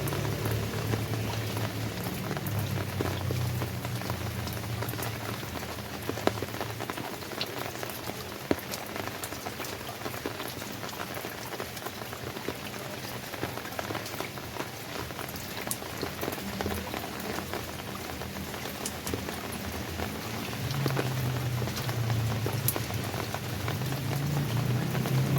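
Steady rain falling, an even hiss with many individual drops ticking sharply. A low hum underneath fades out over the first few seconds and comes back near the end.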